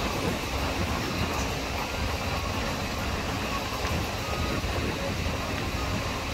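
Steady running noise of an express passenger train in motion, heard from an open coach door: wheels on the track and air rushing past.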